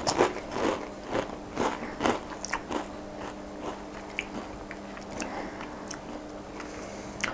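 A Pringles potato crisp being bitten and chewed: a run of crisp crunches about two a second that thin out and fade after about three seconds into softer chewing.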